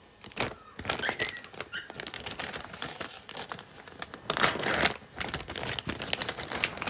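Plastic packaging crinkling and rustling as it is handled, in quick irregular crackles.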